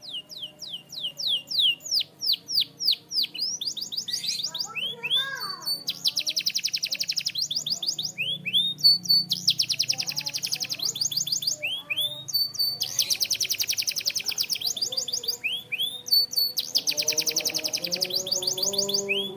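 Canary singing: runs of quick, sharply falling whistled notes alternating with fast rolling trills that each last a second or two, repeated throughout.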